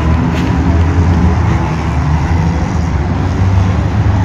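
Engines of several compact demolition derby cars running and revving together in a dense, steady din.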